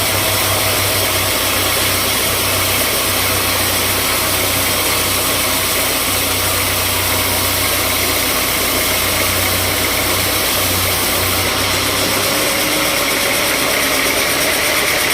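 Sawmill machinery running steadily and loudly, with a low engine hum underneath that drops away about twelve seconds in.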